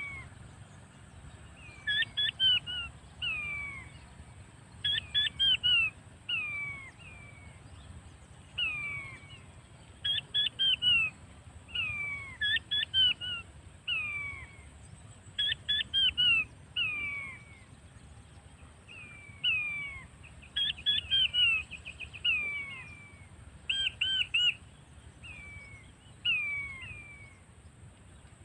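Quail calls: a running series of clear whistled notes, each sliding downward in pitch, often in quick groups of two to four, repeating every second or two.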